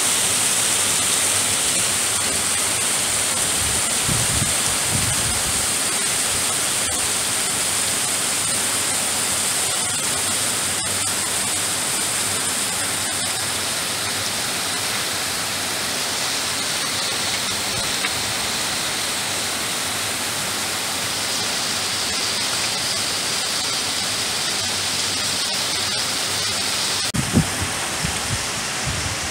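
Heavy tropical-storm rain pouring steadily onto a flooded street and parked cars, a dense unbroken hiss. A few low thumps come near the end.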